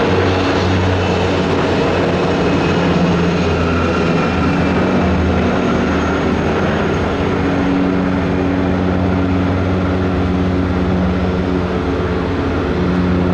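Twin turboprop engines of an Embraer 120 Brasilia running at take-off power: a steady propeller drone with low humming tones over a broad engine roar.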